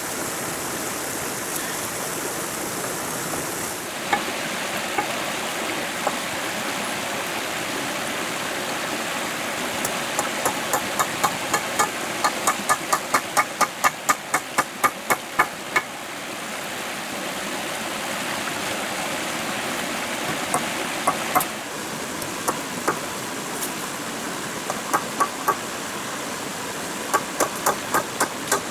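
A stream running steadily, with runs of quick regular knocks, about three or four a second, from a tool striking, such as chopping or hammering. The knocks come in the middle and again near the end.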